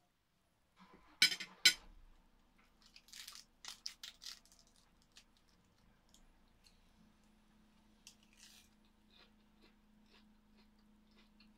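Two sharp clicks of a metal spoon and fork being set down on a plate, about a second in, then close-up chewing and crunching of food. Scattered faint ticks follow over a faint steady hum.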